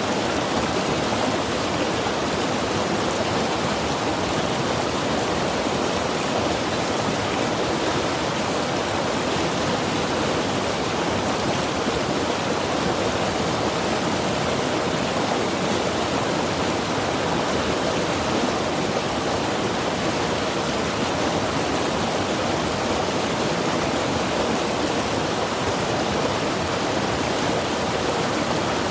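Mountain river rushing over rocks, a steady, even roar of water.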